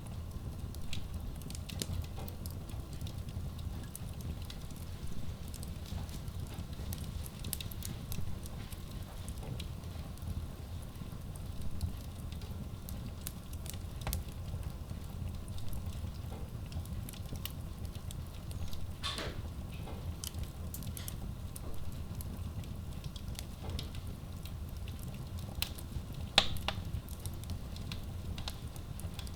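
Wood logs burning in a Kratki Koza K6 stove-fireplace: a steady low rumble of flame with scattered small crackles. Two sharper pops stand out, one about two-thirds of the way through and a louder one near the end.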